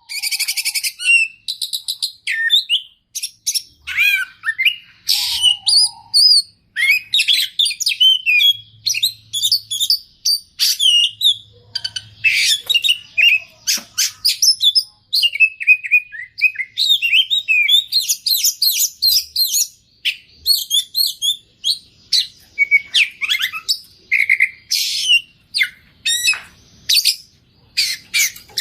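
Oriental magpie-robin (kacer) singing loudly and almost without pause. Its fast, varied song of whistles, trills and chirps is packed with phrases mimicked from other birds.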